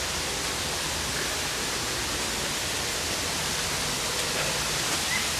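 Steady, even rush of water from a man-made waterfall.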